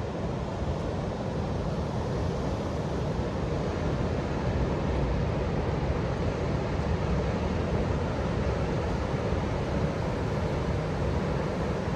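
Steady rush of Indian Ocean surf mixed with wind, heaviest in the low end, swelling slightly about four seconds in.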